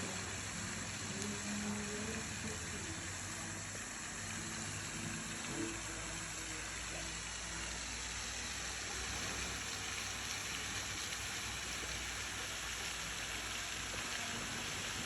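Steady hiss of running, splashing water.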